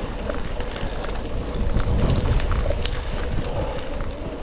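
Wind buffeting the microphone and bicycle tyres rolling along the road while riding, with scattered small ticks and a rumble that swells about two seconds in.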